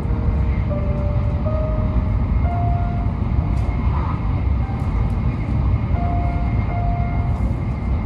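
Steady low rumble of an N700S Shinkansen train running at speed, heard from inside the passenger cabin. A few soft held notes of background music sound over it.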